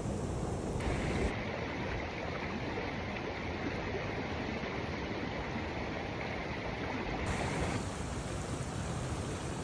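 Steady rushing outdoor noise with no distinct events; its tone shifts abruptly about a second in and again near the end.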